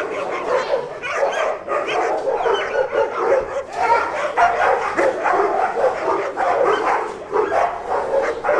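A recording of a pack of dogs barking nonstop, many barks overlapping with no pauses.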